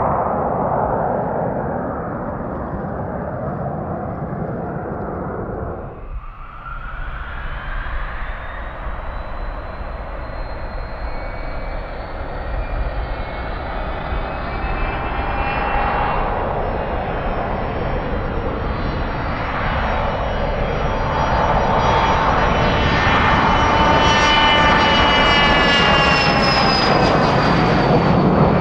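Business-jet turbofan engines: a broad roar, then about six seconds in an abrupt change to a whine of several tones that climb in pitch and grow louder, as if the engines spool up or the jet comes closer, with the top tone dipping slightly near the end.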